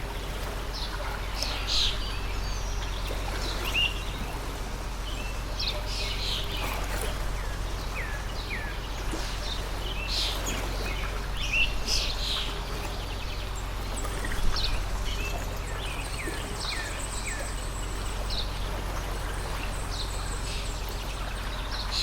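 A stream of water running steadily, with birds giving many short, high chirps and calls over it.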